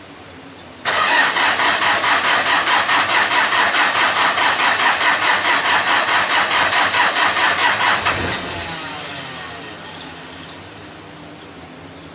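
Hyundai D4BH four-cylinder turbodiesel in a Starex/H1 van being cold-started: the starter cranks the engine for about seven seconds with a steady rhythm of about four compression pulses a second. Near the end of the crank the sound drops off, and the engine settles into a quiet, steady idle.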